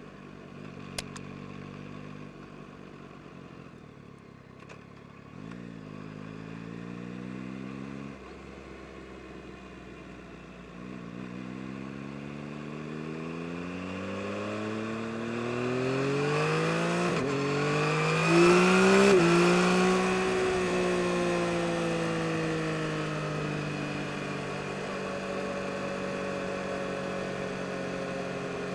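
2022 Yamaha MT-09 SP's inline-three engine on the move. It is low and steady at first and gives a short pull, then accelerates hard with the pitch climbing for several seconds. A brief break in the climb sounds like a quickshifter upshift, and it peaks loudest a little past halfway. The engine note then falls slowly as the throttle is rolled off.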